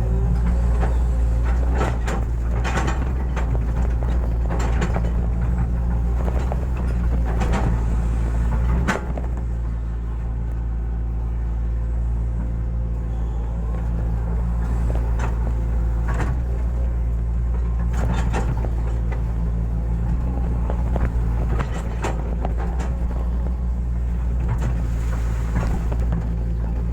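Hitachi excavator's diesel engine running steadily while it digs. Scattered clanks and knocks from the bucket working soil sound over the engine every few seconds.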